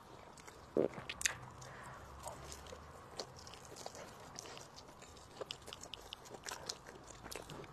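A person chewing food close to the microphone, with small wet mouth clicks and soft knocks scattered through, and a louder thud about a second in.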